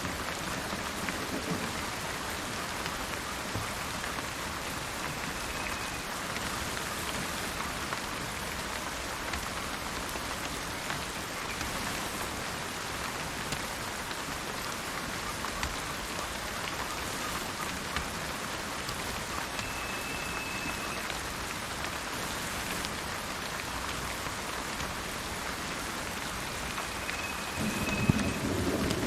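Steady rain falling, with three brief high bird chirps scattered through it and a low rumble of thunder swelling near the end.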